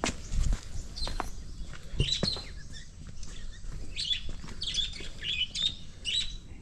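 Small birds chirping, many short high calls following one another, with a few low thuds near the start and about two seconds in.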